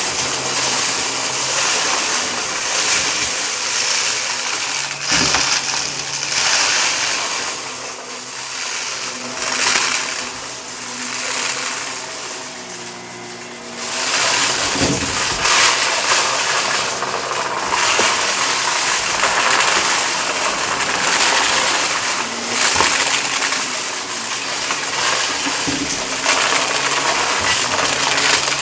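Shark vacuum cleaner running over carpet and sucking up crunchy debris that crackles and rattles through it. The sound rises and falls every few seconds, with a few sharp clicks.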